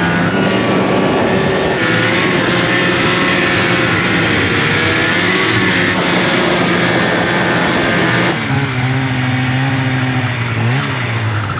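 Snowmobile engine running under throttle, its pitch rising and falling; the sound changes abruptly about eight seconds in, to a lower, steadier engine note.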